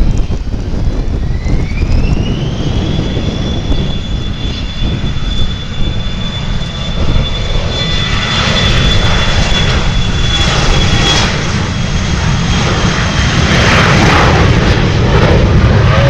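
Airliner engines spooling up with a high whine that rises over the first few seconds, then holds steady before fading about eleven seconds in, over a heavy low rumble. A louder rushing roar builds near the end.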